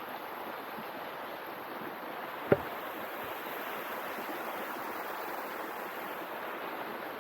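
Steady rushing noise with a single sharp knock about two and a half seconds in.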